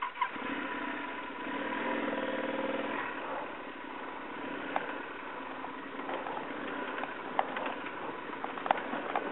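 Yamaha Super Tenere 1200's parallel-twin engine running at low revs while the bike is ridden over a rocky track. Its pitch wavers in the first few seconds and then holds steady, with a few sharp knocks in the second half.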